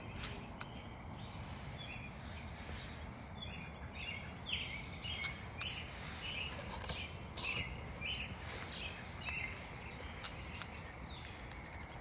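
A bird chirping over and over, about two short chirps a second, over a steady low rumble, with a few sharp pops.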